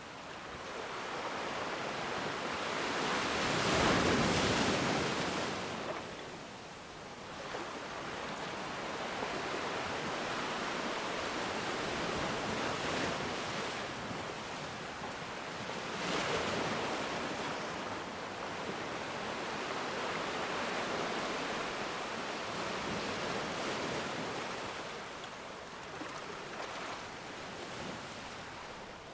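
Ocean waves breaking and washing onto a shore, a steady rushing surf that swells and falls back; the biggest wave breaks about four seconds in and another about sixteen seconds in.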